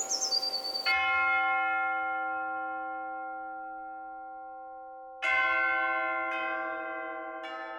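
Bells ringing, struck about a second in and again roughly five, six and seven and a half seconds in. Each stroke slowly dies away.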